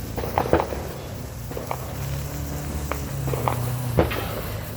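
A handful of short, sharp pops and clicks at irregular intervals, the clearest about half a second in and about four seconds in, over a low steady hum.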